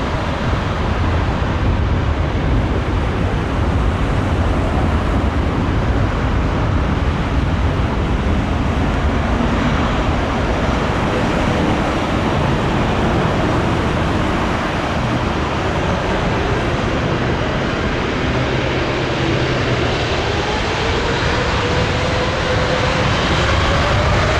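Jet airliner engines, a loud steady rushing roar with deep rumble. From about three-quarters of the way through, a whine rises steadily in pitch as the engines spool up.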